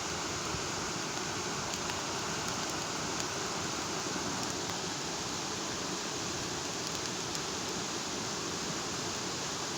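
Bonfire burning: a steady rushing hiss of flames with a few faint crackles.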